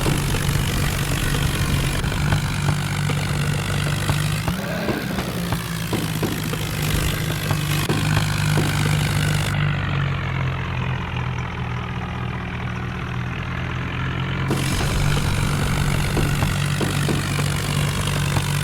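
Diesel tractor engine running steadily, with a brief rise in pitch about four and a half seconds in.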